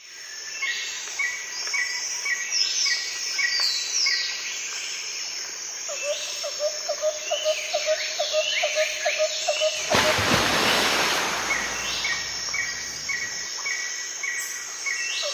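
Forest birds calling: many short chirps and sweeping whistles, with a run of evenly repeated lower notes, about three a second, in the middle. A loud rushing noise breaks in about two thirds of the way through and dies away after a few seconds.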